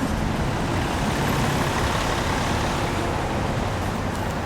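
Road traffic noise, with the engines and tyres of passing heavy vehicles. It is a steady, dense sound that swells slightly about halfway through.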